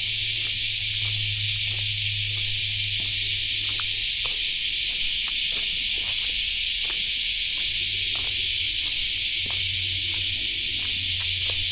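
A steady, shrill chorus of insects fills the air, with a low hum underneath that fades out for a few seconds midway. Faint footsteps tick along the path.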